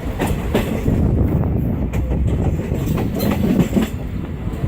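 A moving train, its wheels clattering over the rail joints in irregular clicks and knocks over a steady low rumble.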